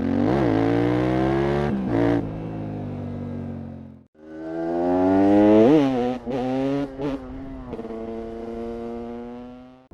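A TM Racing SMR 300 two-stroke supermoto engine revving and pulling hard, heard in two short stretches that fade in and out, the second starting about four seconds in. The pitch jumps up and drops back sharply in each, with several brief cuts in the sound as the throttle closes between pulls.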